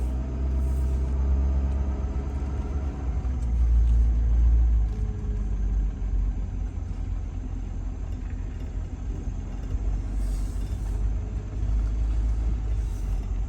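Diesel pickup truck driving: a steady low engine and road rumble that swells briefly about three to five seconds in.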